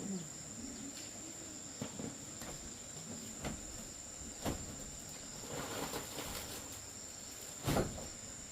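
Steady high-pitched chirring of crickets, with a few scattered soft knocks and a louder thump near the end.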